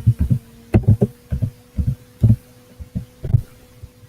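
An irregular run of about a dozen short, dull low thumps over a steady electrical hum.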